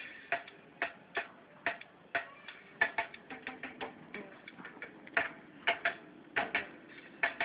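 Irregular sharp clicks and taps, about two or three a second, some followed by a brief ringing tone.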